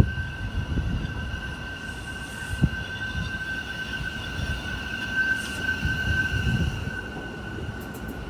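New York City subway train on the Rockaway Park Shuttle running through the station with a low rumble and a steady high-pitched squeal that is strongest about five seconds in.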